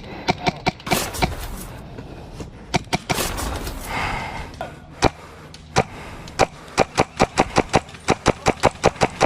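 Airsoft guns firing: sharp cracks of shots, scattered at first, then a steady string of about five shots a second in the last couple of seconds.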